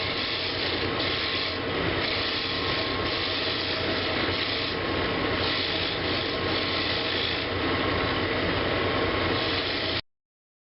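Woodturning lathe spinning a large wooden bowl while a tool or abrasive rubs steadily against the turning wood during finishing. It stops abruptly near the end.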